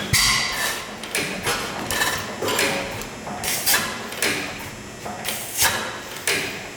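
Dempster 8 HP hit-and-miss gas engine being turned over on a start attempt, making a regular series of sharp mechanical clacks, each with a brief noisy tail, roughly every half to two-thirds of a second.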